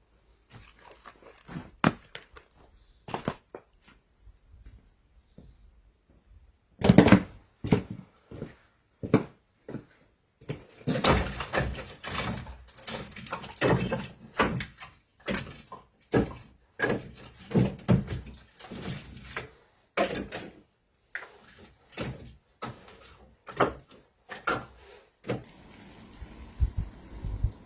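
Irregular knocks and thuds of hands-on work, a few scattered at first, then a dense run of them from a loud thud about seven seconds in.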